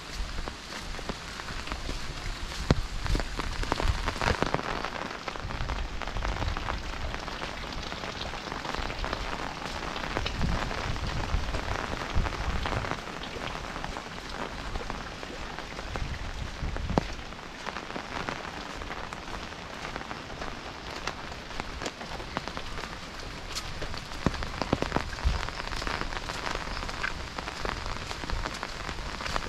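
Steady rain falling on foliage and a wet brick path, with many sharp, close drop impacts scattered through the patter.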